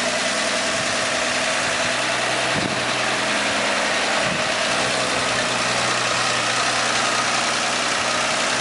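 1959 Ford truck engine idling steadily.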